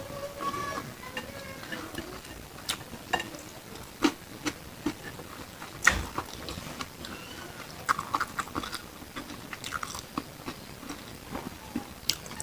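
Close-miked chewing and biting on grilled beef satay: irregular wet mouth clicks and smacks, with a sharper click about six seconds in and another near the end.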